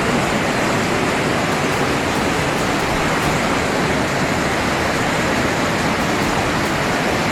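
Steady, loud rush of water from a cloudburst-like heavy downpour.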